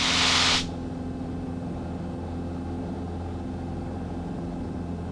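Cessna 150's four-cylinder Continental O-200 engine running steadily at climb power just after takeoff, heard in the cabin as a low drone with several steady tones. A brief hiss comes in during the first half-second and stops.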